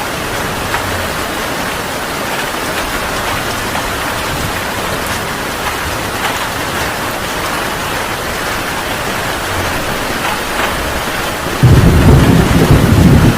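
Heavy rain falling steadily. Near the end a sudden, loud, low rumble of thunder breaks in.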